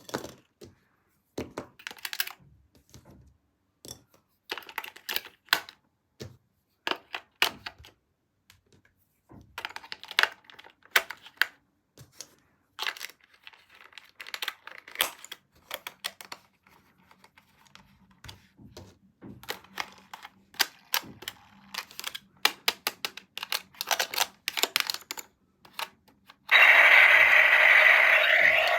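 Irregular clicking, tapping and crinkling of a plastic toy and its packaging being handled. Near the end, a loud electronic sound starts abruptly as the toy is switched on.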